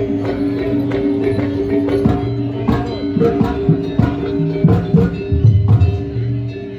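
Jaranan ensemble music played live: drums and struck percussion in a steady, quick beat over sustained tones, with the drums' pitch bending up and down about halfway through.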